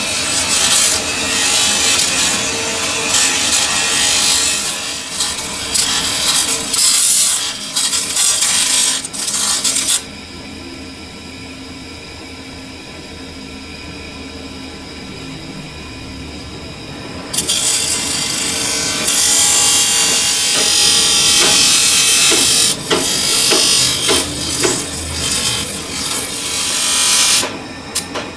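Metal lathe cutting a sugarcane juicer roller bush: harsh scraping of the cutting tool on the spinning workpiece. About ten seconds in it drops to the quieter, steady hum of the running machine, and the loud cutting starts again some seven seconds later.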